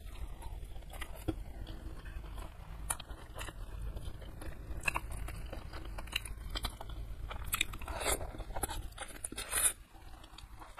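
Close-miked eating by hand: wet chewing, lip smacks and sharp crunches as a mouthful of rice with chewy beef-skin curry and then stir-fried genjer greens are eaten. There are many short irregular smacks and clicks, a few louder ones near the end.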